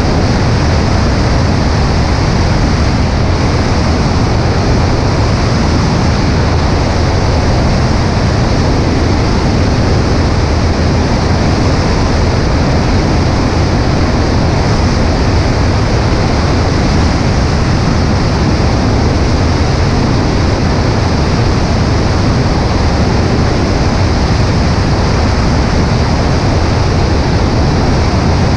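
Steady, loud wind rush mixed with the drone of a Cessna 140A's engine and propeller in flight, heard through a camera mounted on the right wing.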